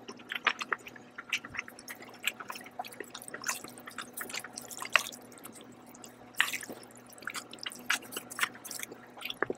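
Close-miked chewing of a mouthful of chicken and noodles: a string of short wet mouth clicks and smacks at irregular intervals, the sharpest about five seconds in.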